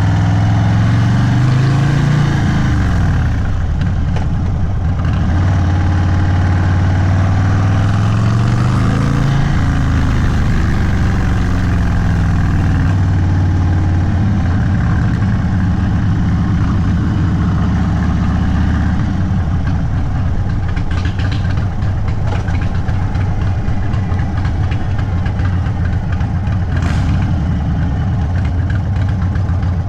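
Indian Sport Chief's V-twin running through an aftermarket Sawicki Speed exhaust, loud and unbaffled-sounding. The revs rise and fall twice in the first ten seconds, then hold steady, and near the last third drop to a lower, uneven beat like an idle.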